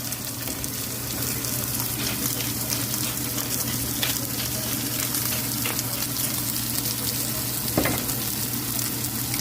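Pork neck sizzling in a hot frying pan: a steady frying hiss full of small crackles and spits, over a low steady hum. A single sharper knock about eight seconds in.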